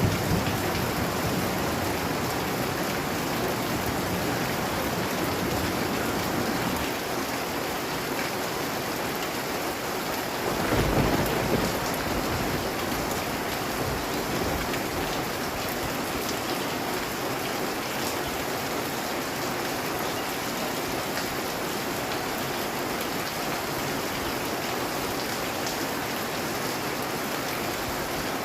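Heavy rain falling steadily, a dense even hiss, with a brief low rumble swelling up about eleven seconds in.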